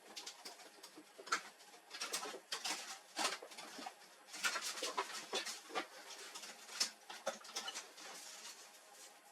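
Irregular light clicks, taps and small knocks, a few of them sharper, from laser-printer parts and tools being handled during disassembly.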